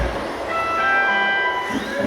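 A chime of several overlapping steady tones at different pitches, starting one after another about half a second in and fading out near the end.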